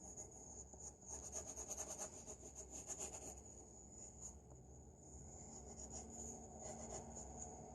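Faint scratching of drawing strokes on paper: a run of quick back-and-forth strokes in the first half, then fainter, sparser ones.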